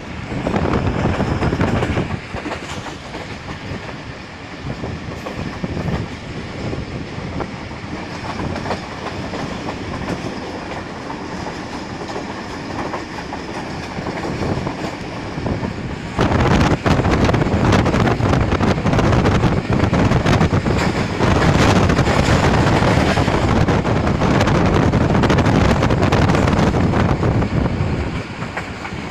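A moving train heard from on board: a steady rumble with the wheels clattering over the rail joints. It gets clearly louder about halfway through.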